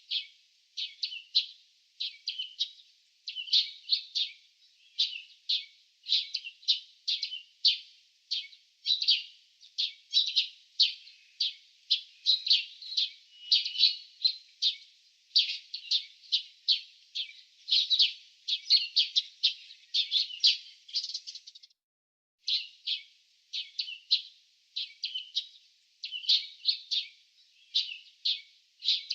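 Small birds chirping: short, high chirps repeated several times a second, with a brief pause a little past two-thirds of the way through.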